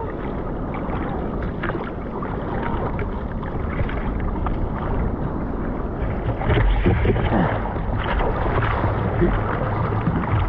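Ocean water washing and sloshing in the surf, with wind noise on the microphone; it grows louder about six and a half seconds in.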